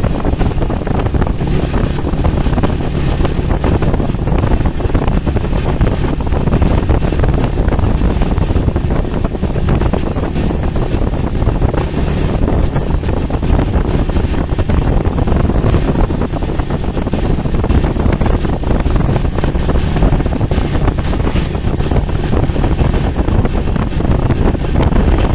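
Steady, loud wind buffeting the microphone over the rumble of a moving vehicle.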